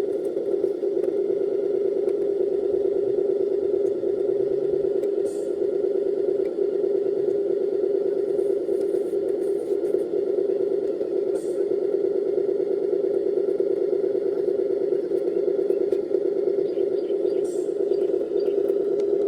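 Radio-controlled scale dump truck running: a steady mechanical hum with light rattles and a few faint clicks.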